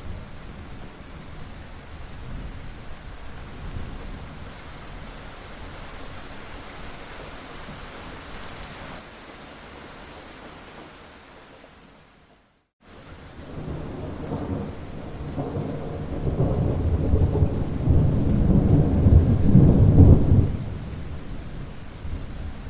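Steady rain with low rolling thunder. About halfway through the sound fades out to a short silent gap, then a long thunder rumble builds, loudest near the end, and drops away suddenly.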